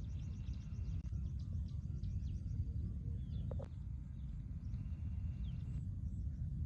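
Faint short bird chirps over a steady low rumbling noise.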